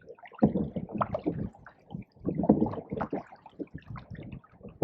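Water gurgling and sloshing around a canoe being paddled, in uneven irregular bursts.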